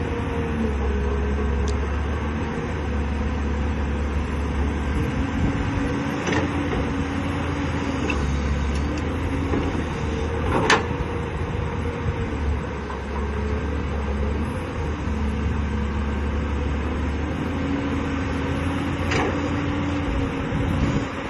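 CAT 320D hydraulic excavator's diesel engine running under digging load, its low drone swelling and easing, with a steady hydraulic whine over it. Three sharp metallic knocks come at about six, eleven and nineteen seconds in.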